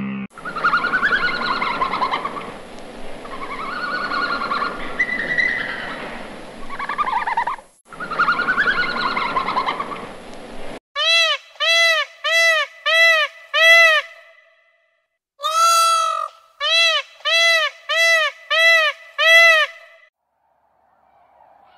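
Birds calling and chirping over a hissy background for about ten seconds, then a run of loud honking bird calls, evenly spaced about two a second, in two bursts.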